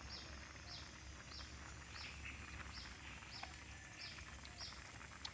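A small bird calling over and over: a short, high chirp that slides downward, repeated evenly about every half to two-thirds of a second, about eight times. The calls are faint against steady outdoor background noise.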